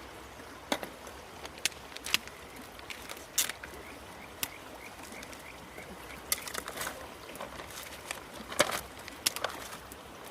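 Steady rush of a river with scattered sharp clicks and knocks, and a short run of faint, evenly spaced chirps a few seconds in.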